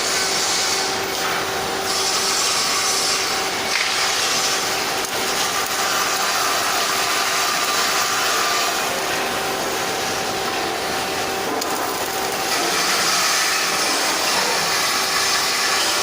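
Arc welding on stainless steel: a steady harsh crackle and hiss that runs on without a break, turning brighter for a couple of seconds near the start and again near the end, over a faint constant hum.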